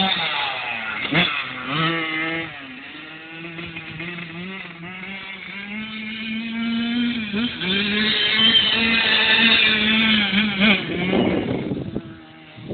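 Kawasaki KX-85 two-stroke dirt bike engine revving and pulling through its gears, its pitch holding, dropping and climbing again. It is at its loudest and highest past the middle, then fades away near the end.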